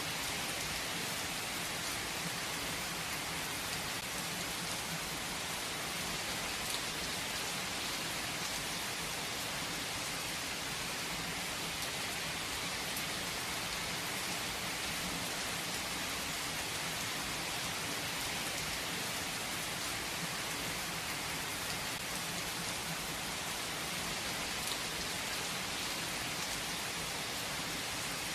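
Steady rain falling, an even hiss of many drops with faint scattered pattering.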